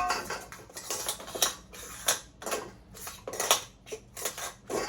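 Parts of a disassembled KitchenAid food grinder attachment clicking and clattering as they are handled and set down: a run of irregular sharp knocks, a few a second.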